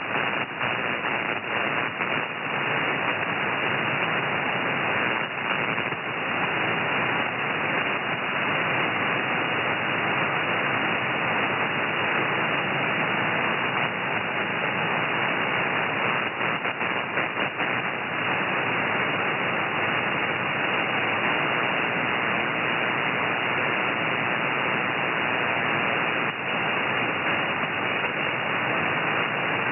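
Static hiss of band noise from an ANAN amateur radio receiver, heard through a narrow sideband filter so it sounds muffled above the voice range. It runs steadily, with a few brief crackles and dips in level.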